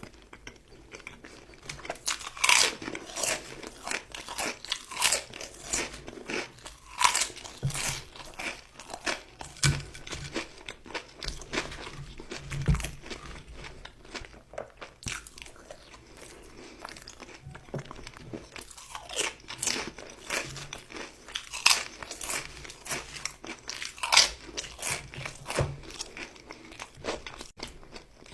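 Close-up eating sounds of crispy nuggets and chips: repeated sharp, irregular crunching bites with chewing in between.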